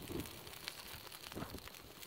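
Small wood fire crackling faintly, with scattered light pops and a couple of soft knocks.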